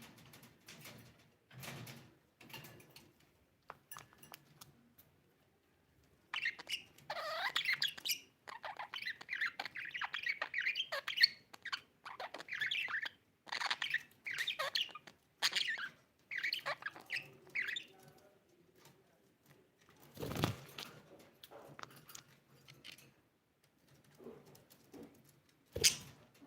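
Pet budgerigars chirping and warbling in a run of busy chatter for about ten seconds through the middle, with soft taps and clicks before it and two sharp knocks later on.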